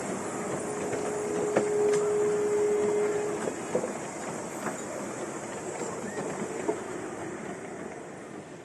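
A train rolling past and receding, its noise fading steadily, with scattered clicks from the wheels over the track. A thin steady squeal sounds for the first three seconds or so, then stops.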